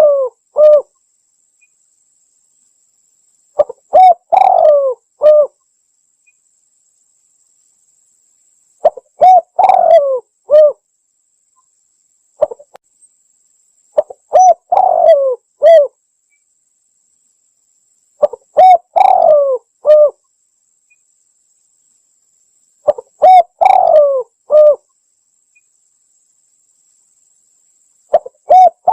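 Spotted dove (tekukur) coo phrase, several notes each, repeated about every five seconds with silence between; it is the lure call used to draw wild doves in. A faint steady high whine runs underneath.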